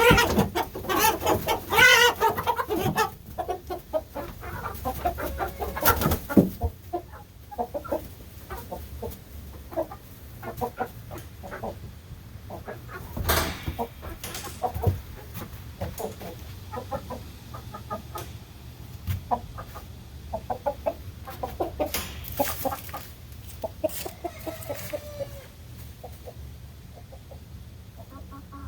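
Chickens clucking and squawking, loudest and densest in the first few seconds: the alarm calls of birds being caught by hand. Short clucks carry on throughout, with a few sharp knocks and rattles among them.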